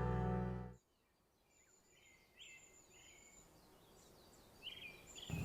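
Background music cuts off about a second in. Faint birdsong follows: repeated short chirps and thin high whistles.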